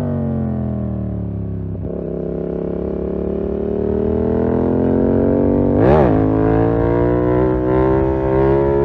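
2020 Yamaha MT-07's parallel-twin engine through a full SC-Project 2-1 exhaust. The note falls as the revs drop over the first two seconds, then rises steadily as the bike accelerates, with a quick sharp rev blip about six seconds in.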